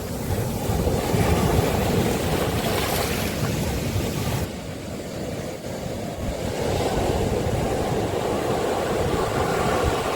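Sea waves breaking and washing up a beach: a continuous rushing surf with a deep rumble underneath. It is louder in the first few seconds, eases around the middle, then builds again.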